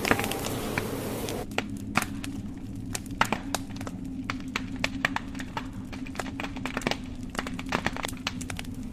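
Wood burning in a fireplace, crackling and popping with many sharp snaps at irregular intervals over a low steady rumble. A hissing rush of wind covers it at first and cuts off abruptly about a second and a half in.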